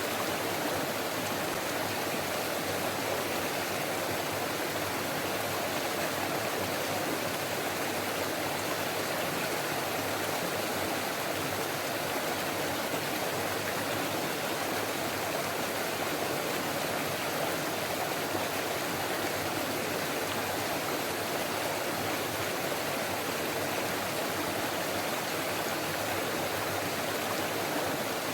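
Forest stream babbling and rushing over rocks, a steady even wash of water.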